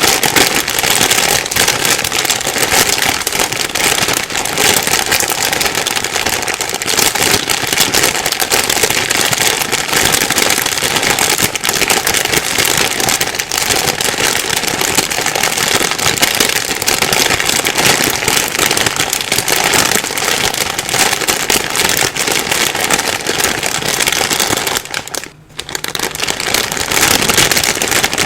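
Plastic bag being rustled and crumpled steadily, a dense crinkling crackle that pauses briefly about 25 seconds in.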